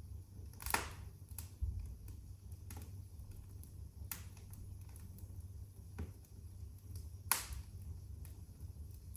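Wood fire crackling in a fireplace: irregular sharp pops and snaps, two louder ones about a second in and near the end, over a low steady rumble of the flames.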